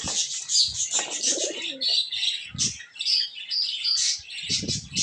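Pigeons cooing, with one low, wavering coo about a second in, over constant high-pitched chirping from small birds.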